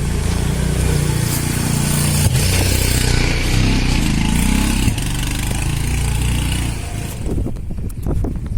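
A motor vehicle's engine running close by as it passes on the road, steady and loud, then fading away about seven seconds in.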